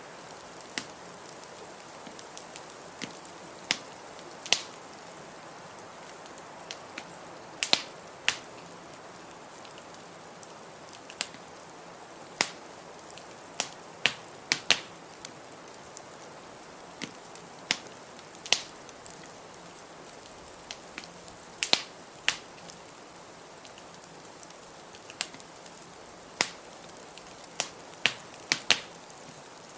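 Wood fire crackling in a fireplace: sharp, irregular pops a second or so apart over a steady hiss of blizzard wind.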